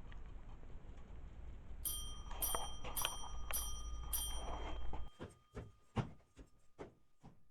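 A bell-like chime struck five or six times, about twice a second, each strike ringing on. It is followed by a run of light clicks or knocks.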